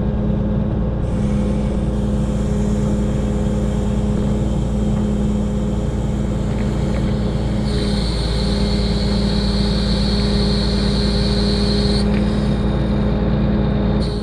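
Diesel engine of a 1974 Kenworth self-loading log truck running steadily while logs are loaded. A high hiss comes in about eight seconds in and stops about four seconds later.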